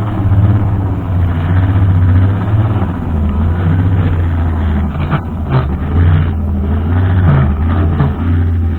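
Brushcutter engine running steadily as a low drone that swells and dips slightly, with a few short sharp crackles about five seconds in.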